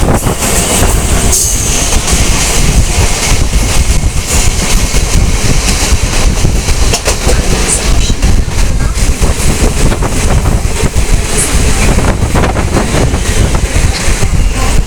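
Mumbai suburban local train, an electric multiple unit, running along the track: a steady rumble with irregular clicking and clattering of the wheels over the rails.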